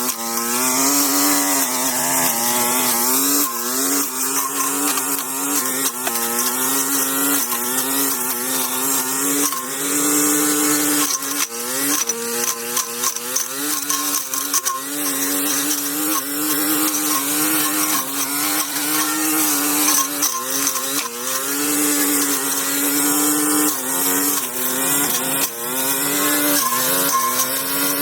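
Small engine of a handheld power tool running at high revs, its pitch rising and dropping again and again as it works under load.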